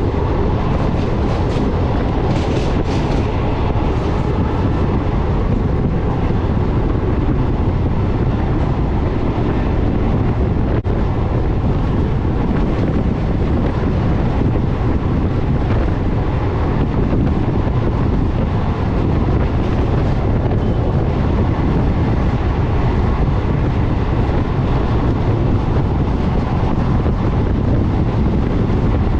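Indian Railways passenger coach running at speed, heard from on board: a steady, loud rumble of wheels on the track. A few short hissing rattles come through about one to four seconds in.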